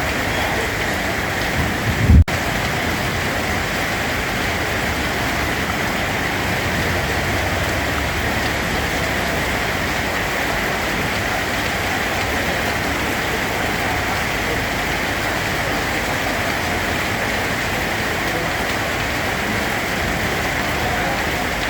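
Steady heavy rainfall, an even hiss of rain on a surface. About two seconds in there is one brief low thump, and then a momentary cut in the sound.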